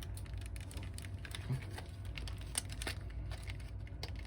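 Irregular light clicks and taps, a few each second, over a steady low hum.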